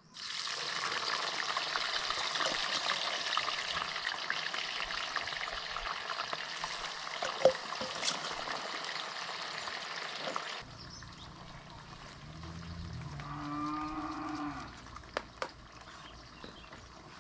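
Food sizzling in hot oil in a wok for about ten seconds, cutting off suddenly. Then a cow moos once, a long call falling in pitch, followed by a few faint clicks.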